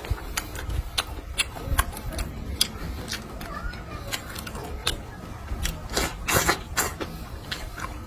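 A person eating: irregular clicks of utensils against a bowl and dishes, with mouth sounds of chewing.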